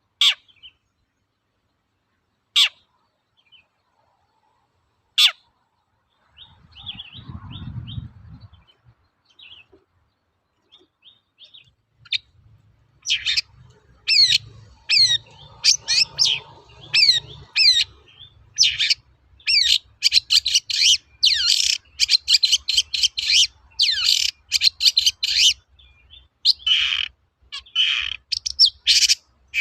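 Long-tailed shrike (cendet) singing. It opens with three single sharp calls a couple of seconds apart, each falling steeply in pitch, then gives a run of quieter chirps with a brief low rumble. From about halfway in comes a loud, fast song of rapid repeated notes and bursts.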